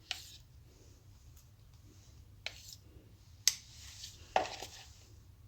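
Four faint, short knocks and clicks of utensils against a bowl as curd is spooned onto raw chicken pieces for a marinade.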